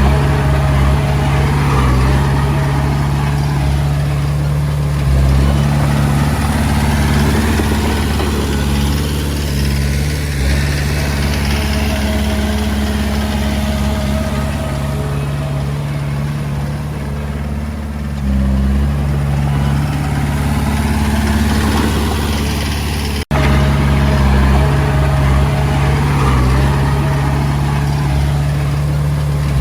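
Diesel engine of a Komatsu D20A bulldozer running steadily, its pitch shifting slightly a few times. The sound breaks off abruptly about two-thirds of the way through and comes straight back.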